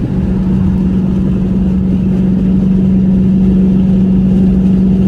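Car engine idling steadily with a constant low drone and rumble.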